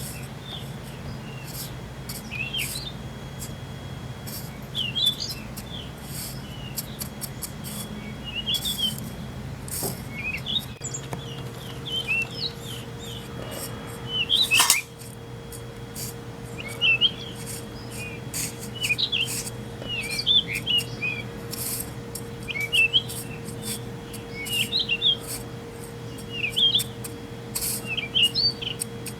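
Small birds chirping over and over in short, quick sweeping calls, over a steady low hum. A single sharp, loud crack comes about halfway through.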